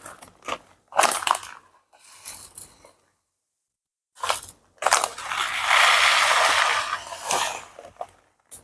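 Close-up crunching of hard raw corn rice being bitten and chewed. It comes as short irregular crunches, stops for about a second, then resumes with a longer stretch of dense crunching in the second half.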